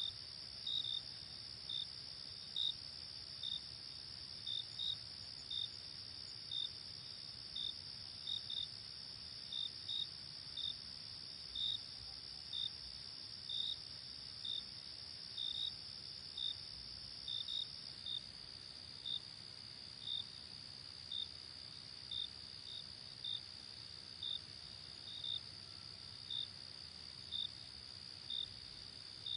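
Night crickets: a steady, high continuous trill, with short chirps about once a second, some in quick pairs.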